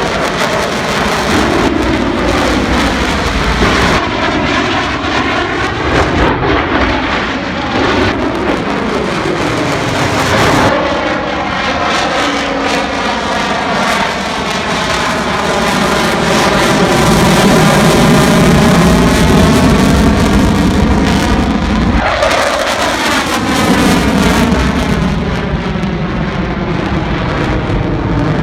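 Jet aircraft flying past at an air show display: a loud, continuous engine roar with whooshing sweeps in tone as it passes, several times over.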